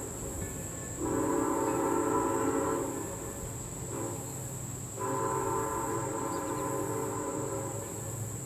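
Steam whistle of Mikado (2-8-2) locomotive 3025 blowing a chord: a long blast, a short toot, then another long blast, the tail of the long-long-short-long road-crossing signal. Under it runs a low steady rumble.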